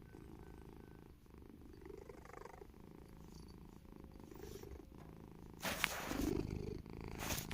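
Domestic cat purring steadily, a low rumble of quick even pulses. A louder noise about six seconds in lasts about a second.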